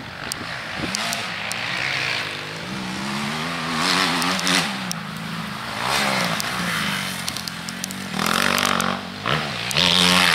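Motocross bike engine revving up and down over and over, its pitch rising and falling as the throttle opens and closes. Bursts of rushing noise come in between, and the engine is loudest near the end.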